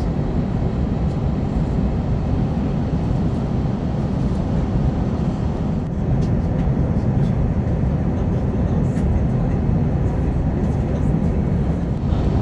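Cabin noise of an Airbus A320neo airliner in flight on descent: a steady low rumble of airflow and engine drone, getting a little louder about halfway through.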